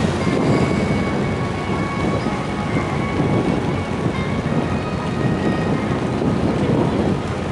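Wind buffeting the microphone: a steady, loud low rumble, with faint steady tones in the background.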